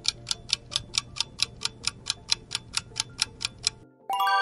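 Countdown-timer sound effect: a fast, even clock ticking, about four to five ticks a second, which stops near the end and gives way to a short, bright chime.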